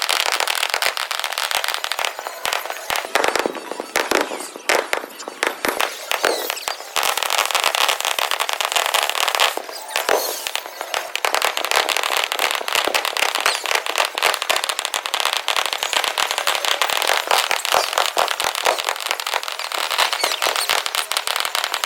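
Fireworks played fast in a timelapse: a dense, unbroken rattle of rapid pops and crackles, with little deep rumble.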